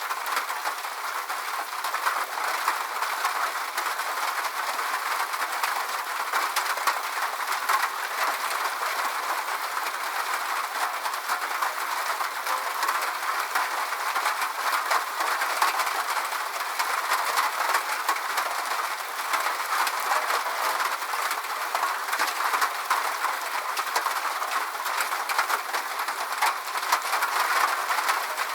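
Steady rain: a dense patter of many small drop ticks over an even hiss, with no low rumble.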